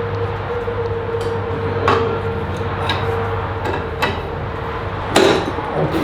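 Hydraulic floor jack being pumped against a bent shifter kart frame to straighten it: four sharp metallic clicks about a second apart, over a steady low hum.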